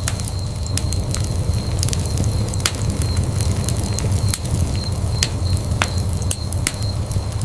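Wood fire burning in a fireplace: a steady low rumble of flames with irregular sharp crackles and pops, about one or two a second.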